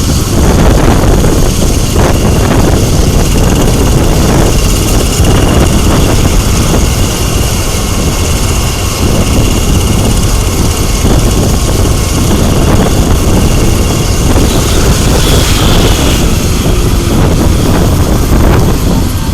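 Medical helicopter running on the ground close by: loud, steady rotor and engine noise with a thin high whine held steady through most of it.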